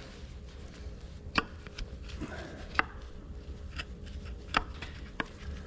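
A few sharp, irregular clicks and knocks of metal engine parts being handled and test-fitted, about four loud ones spread over the stretch, with a low steady hum underneath.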